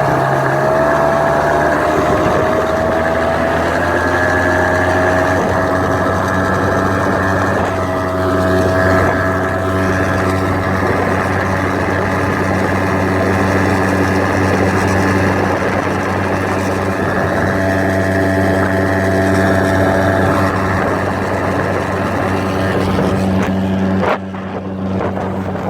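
Nissan Marine 5 hp outboard motor running at full throttle during its break-in. Its pitch rises over the first couple of seconds, then holds steady, and the level dips briefly near the end.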